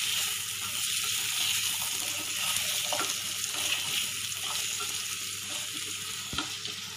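Diced potatoes and prawns sizzling in mustard oil in a frying pan, stirred and turned with a spatula: a steady frying hiss with light scrapes and ticks of the stirring.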